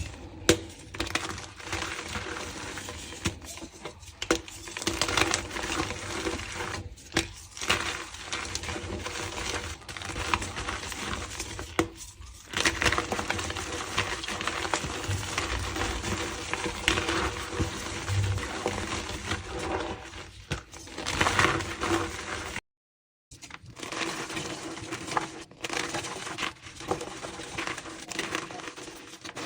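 Reformed gym chalk being crushed by hand, a dense run of crunches and crumbling crackle with many sharp snaps. The sound breaks off for a moment about three-quarters of the way through, then the crunching resumes.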